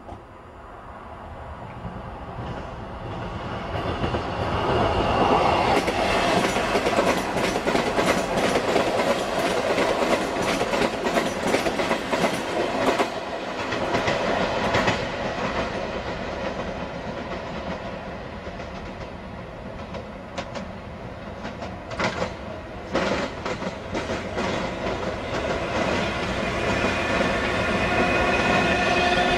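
A Class 442 Wessex Electric multiple unit passes, building up and then fading, with a rapid clatter of wheels over rail joints and pointwork. Near the end a steady whine builds as another electric train approaches.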